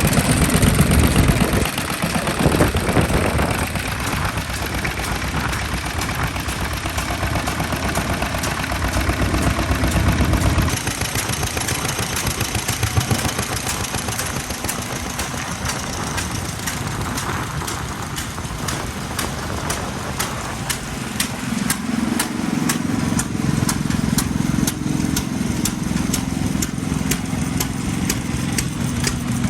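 Vintage stationary engines running with a steady, regular exhaust beat. The engine sound changes character about two, eleven and twenty-one seconds in.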